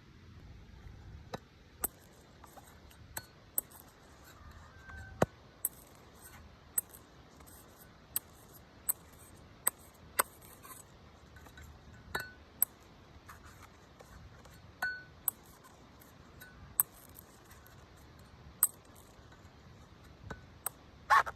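Knife striking and cutting a coconut: sharp, irregular clicks and knocks, roughly one a second. A few ring briefly, and the loudest comes near the end.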